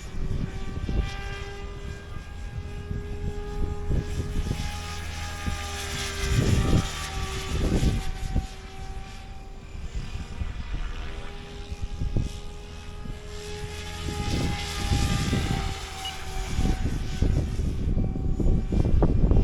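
Radio-controlled helicopter in flight: a steady motor and rotor whine whose pitch rises and falls gently as it manoeuvres, over irregular low gusty rumbles.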